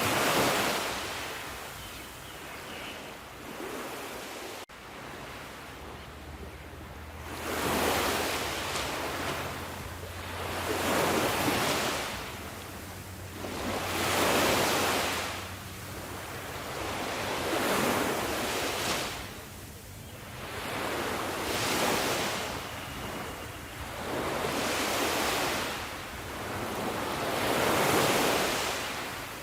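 Sea waves breaking on a shore, each wash of surf swelling and then falling away, about every three to four seconds.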